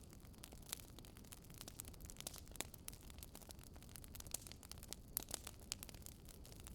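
Wood fire in a fireplace crackling faintly: irregular sharp pops and snaps, several a second, over a low, steady rumble.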